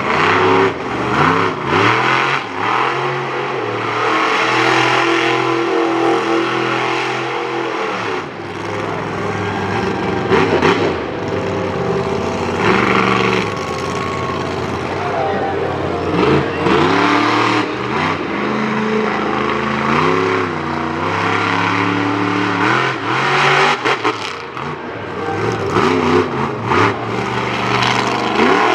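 Monster truck engine revving hard over and over, its pitch swooping up and down as the throttle is blipped and held.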